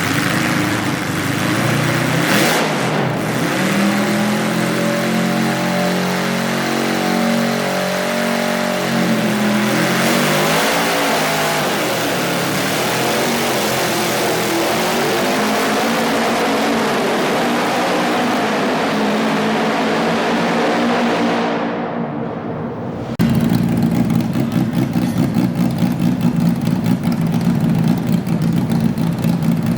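Modified pulling garden tractor engine revving up, its note climbing over several seconds, then running hard at high revs. About three-quarters of the way through it falls away and a lower, pulsing engine note takes over suddenly.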